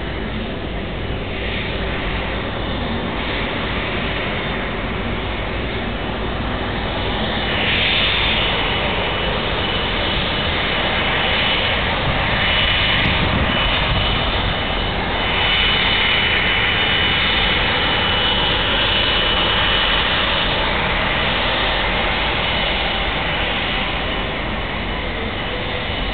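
Airbus A330-200's jet engines running at low power while the airliner is taxied in to park after landing: a steady rush with a thin high whine, swelling slightly about eight seconds in and again around fifteen seconds.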